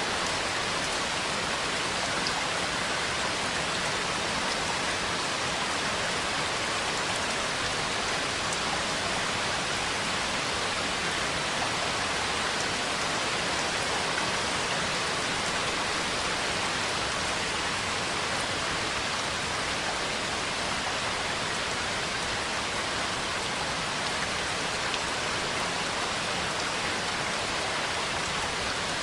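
Steady heavy rain, an even hiss of drops falling on a surface, with no clear thunder.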